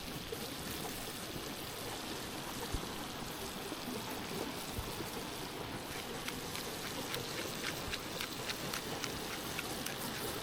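Tomatoes frying in a pan over a wood fire: a steady sizzle, with sharp crackling pops that come thick and fast from about six seconds in.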